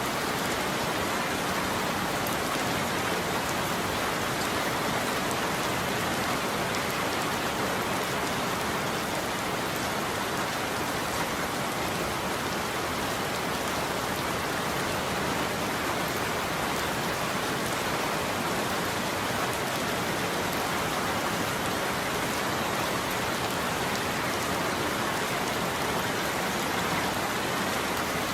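Steady, heavy rain falling on a roof, an even patter with no thunder or separate impacts.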